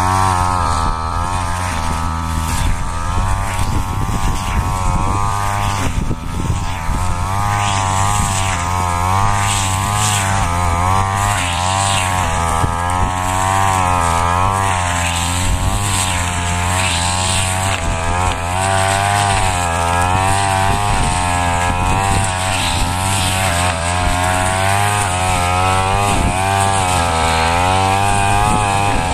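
Petrol brush cutter running at high speed, its engine pitch dipping and rising again and again as the blade cuts through rice straw.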